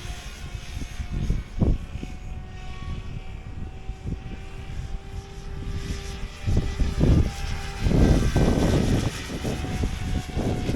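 Electric RC helicopter in flight: the motor and rotor give a steady whine with its pitch shifting slightly, overlaid by low rumbling gusts that are loudest about seven to nine seconds in.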